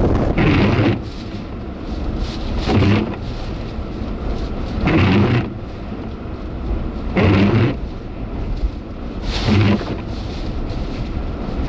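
Car windshield wipers sweeping five times at an even pace, about once every two seconds, over a steady low rumble of wind.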